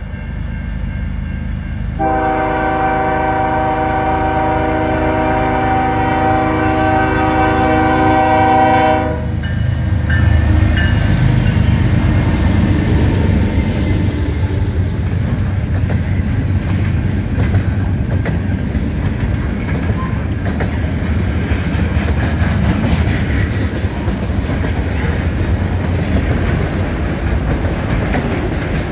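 CN train's locomotive horn sounding one long chord of several notes, about seven seconds, under a steady rumble. The train then passes close by, with a loud rumble and the wheels clattering over the rail joints.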